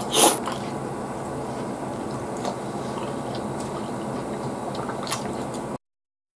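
Close-miked mouth sounds of a man eating raw tuna sashimi: a loud wet sound as the bite goes in just after the start, then faint wet chewing and small clicks over a steady hiss. The sound cuts to dead silence near the end.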